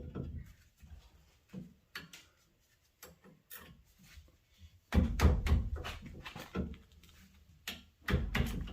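Hand tools, a wrench with a screwdriver for leverage, knocking and clanking against a tight brake-line banjo bolt on a brake caliper as it is forced loose. Scattered clicks and knocks, with louder clusters of thumps about five seconds in and again near the end.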